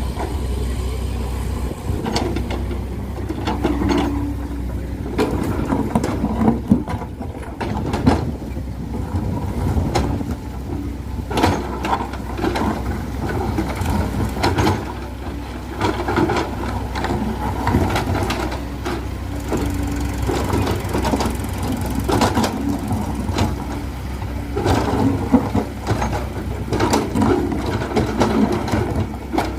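Heavy diesel engine running steadily, with frequent knocks and rattles.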